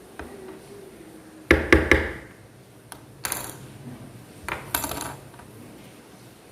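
Small metal hand tools clinking and knocking on a work surface during soldering work: a quick cluster of sharp clinks about a second and a half in, the loudest, then lighter clinks a little after three seconds and again near five seconds.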